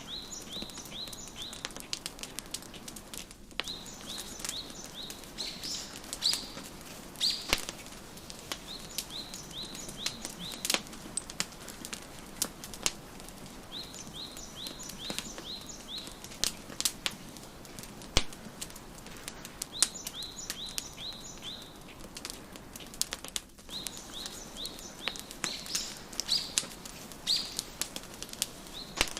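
Wood fire crackling with scattered sharp pops, under a small songbird singing short phrases of quick, high, down-slurred chirps that recur every few seconds.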